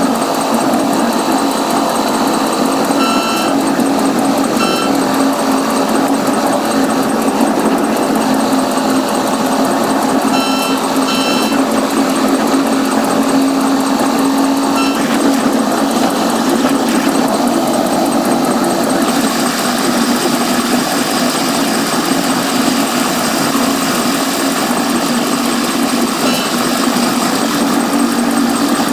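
Caltrain commuter train's running noise heard from the front cab of a gallery cab car, played four times faster than real time, so it comes across as a steady, even mechanical drone with a constant hum. A few short high blips come through about three seconds in and again about ten seconds in.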